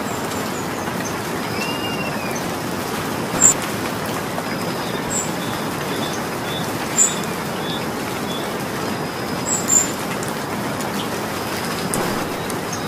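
Steady rain falling, an even hiss, with a few sharp drip-like ticks standing out above it about a third, halfway and three-quarters of the way in. A bird chirps faintly several times in the middle.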